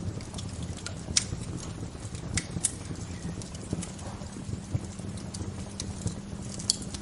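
Wood fire crackling: irregular sharp pops and snaps, a few each second, over a steady low rumble from the fire. The loudest pops come about a second in and near the end.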